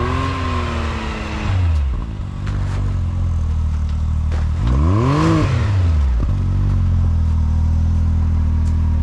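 Off-road vehicle engine revving: its pitch climbs at the start, then about five seconds in it revs sharply up and back down, settling into a steady low drone.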